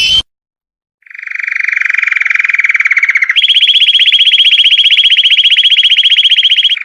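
Belgian canary singing: a short rising chirp, then about a second later a long, very rapid trill that swells in and partway through jumps to a higher-pitched trill, held for over three seconds.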